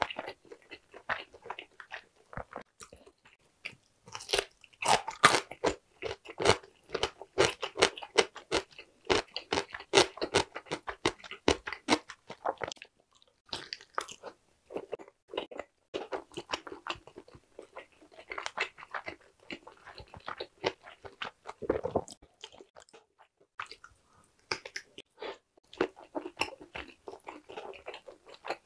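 Close-miked mouth sounds of a person biting into and chewing a whole stir-fried sundae (Korean blood sausage): a dense, irregular run of chewing clicks and smacks. It is busiest from about four seconds in, with a couple of short pauses.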